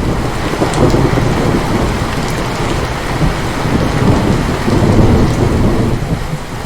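Intense rain falling steadily under a long, rolling rumble of thunder that swells and eases, dipping briefly near the end.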